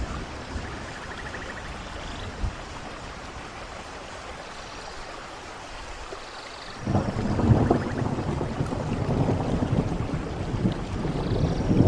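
Steady rain falling, then about seven seconds in a loud rumble of thunder breaks in and keeps rolling, growing toward the end.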